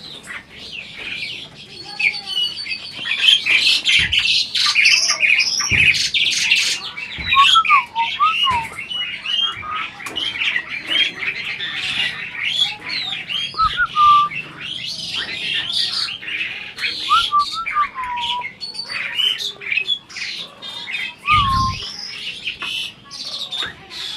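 Asian pied starling (jalak suren) singing continuously: a rapid jumble of harsh chattering notes mixed with short looping whistles.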